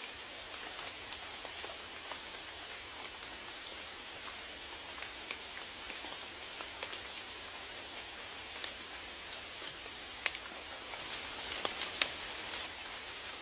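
Steady rain hiss with scattered individual drops tapping close by; the drops bunch up and grow louder toward the end, with one sharp tap near the end the loudest.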